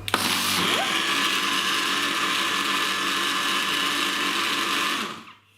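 Electric blender running steadily for about five seconds, blending thawed strawberries with milk and sugar into a milkshake, then switched off and winding down near the end.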